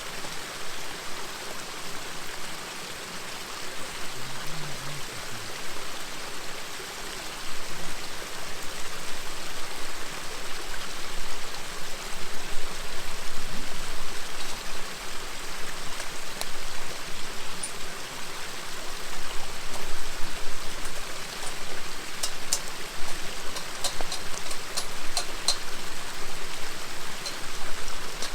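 River babbling steadily, with a wood campfire crackling in short sharp pops that come in a quick run near the end.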